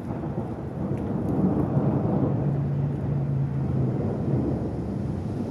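Rolling thunder rumbling low. It swells about a second in and then fades slowly as a storm approaches.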